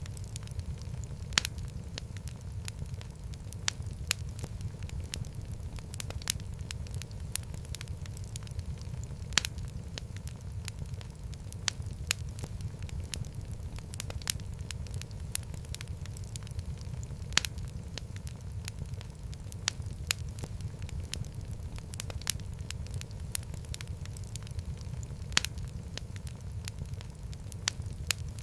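Wood fire crackling in a fireplace: a steady low rumble of flames under a dense scatter of small crackles, with an occasional louder pop every several seconds.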